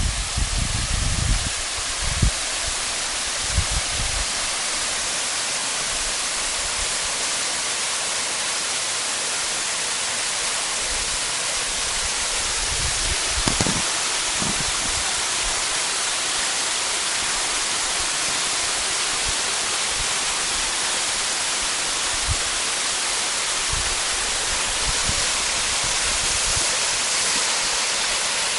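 Waterfall pouring: a steady, loud rush of falling water. A few low thumps near the start and one about halfway through.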